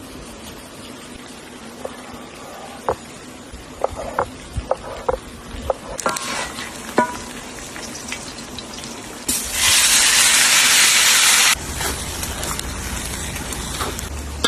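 Outdoor cooking sounds: a few light clinks of utensils, then a loud, even rushing hiss that starts suddenly about nine seconds in and stops suddenly two seconds later, followed by a softer steady hiss.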